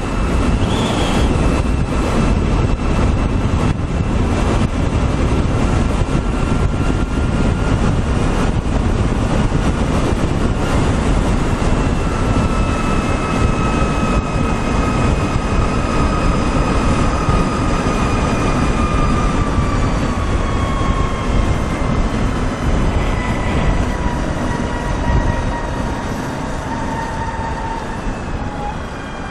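Wind rushing over the microphone while riding the LITO Sora electric motorcycle, with a thin high whine from its electric drivetrain that slowly falls in pitch as the bike slows, the rush easing near the end.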